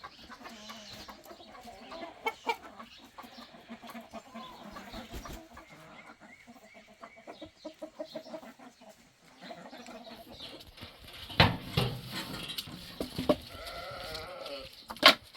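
Goats bleating now and then, with a few sharp knocks near the end.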